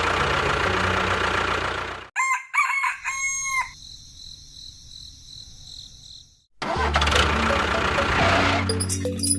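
A rooster crows once about two seconds in, between stretches of loud, noisy engine or machinery sound with a low steady hum; there is a quieter lull in the middle with a faint high steady tone.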